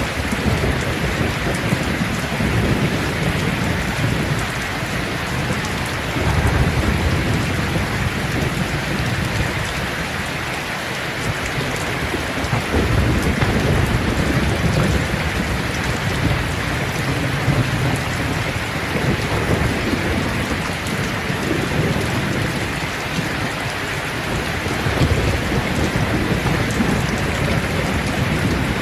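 Steady rain falling on leaves, a dense even patter, with low rumbles that swell and fade several times underneath.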